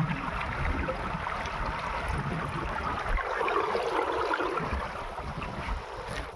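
Water splashing and sloshing, with wind rumbling on the microphone.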